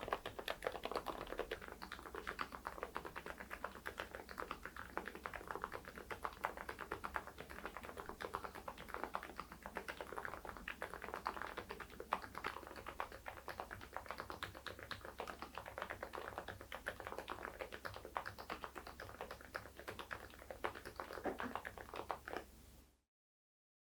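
Continuous fast typing on a mechanical keyboard fitted with PBT keycaps: a dense, steady stream of clacking keystrokes that cuts off abruptly near the end.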